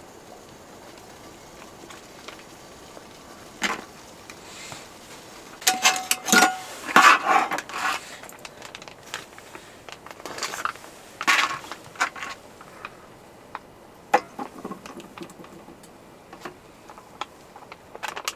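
Cookware and utensils clinking and clattering as a simple meal is prepared, in scattered knocks with a short burst of busier, louder clatter about six seconds in and a brief metallic ring among it.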